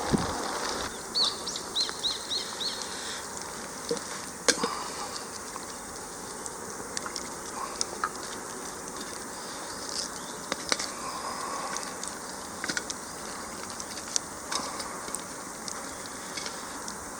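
Birdsong in the open: a bird gives a quick run of about six repeated chirps one to three seconds in. Scattered sharp crackles from a wood campfire sound through the rest.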